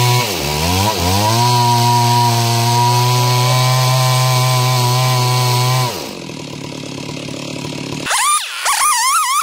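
Stihl chainsaw running at high speed while ripping wood lengthwise into planks, its pitch dipping twice near the start as it bogs under load and recovers. It then drops away about six seconds in. Near the end a loud wavering, warbling tone comes in.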